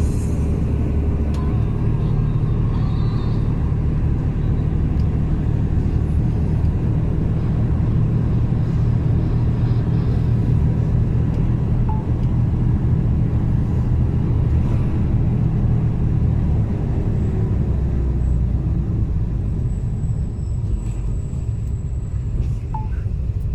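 Mercedes-Benz Actros truck's diesel engine pulling steadily up a steep mountain grade under a load of about 10 tonnes, heard from inside the cab as a continuous low drone.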